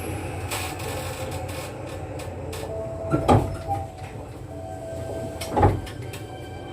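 Cabin running sound of a Kintetsu 9020 series electric train: a steady low rumble of the wheels on the track, broken by two loud clunks about three and about five and a half seconds in.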